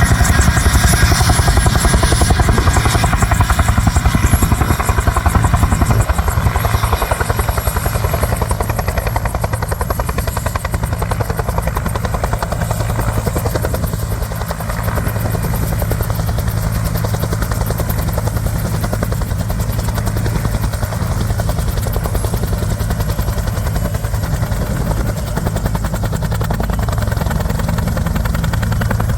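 AH-1F Cobra helicopter running steadily, its turboshaft engine and two-blade main rotor making a dense, even rotor chop.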